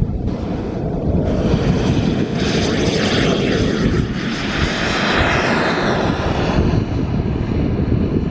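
Gas turbine of a large radio-controlled Aermacchi MB-339 scale model jet in flight: a continuous rushing jet noise that grows louder and brighter about two and a half seconds in and eases off again after about six seconds, as the jet passes.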